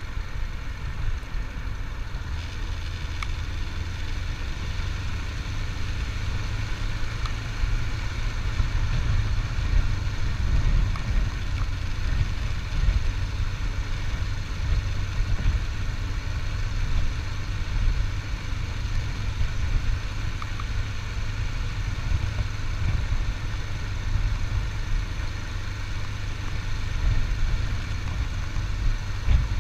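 Motorcycle engine running steadily along with road and wind noise while riding, a continuous low rumble with no marked changes in revs.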